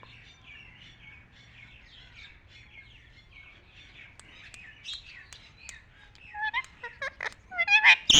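A parrot chirping softly in a quick run of short notes, growing into louder calls that swoop down in pitch over the last couple of seconds, with a few sharp clicks in between.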